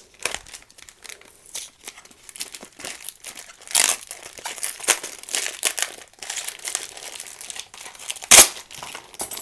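Packaging being crinkled and torn open by hand, an irregular run of rustling and tearing, with one sharp click a little over eight seconds in.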